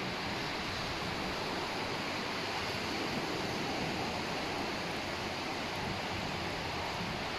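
Steady wash of sea surf on a beach, an even rushing noise with no distinct breaks.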